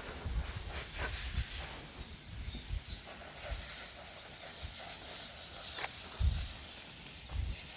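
Footsteps on a forest path, soft irregular thumps, over a steady high hiss of forest ambience, with a few faint high peeps about a second and a half in.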